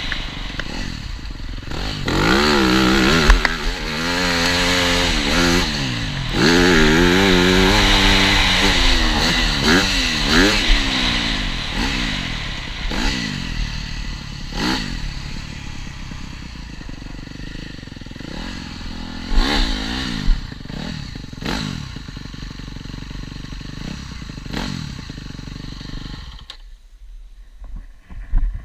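TM Racing 250 FI motocross bike engine revving hard and dropping back again and again as the rider accelerates and shifts gears, with a few sharp knocks. Near the end the engine sound falls away briefly.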